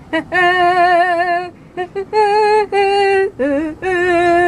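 A voice singing a run of long held notes with vibrato, separated by short breaths, with a brief upward slide before a final long note.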